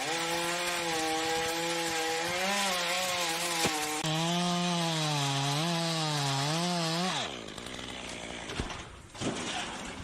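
A chainsaw runs under load while cutting, its engine pitch wavering up and down as the chain bites. About seven seconds in, the engine note falls away steeply and the sound drops to a quieter stretch with a few sharp knocks.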